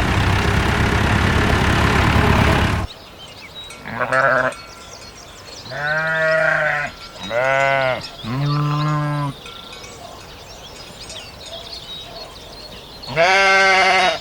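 A loud, steady noise for the first three seconds, then a sheep bleating five times in separate calls, three of them close together in the middle.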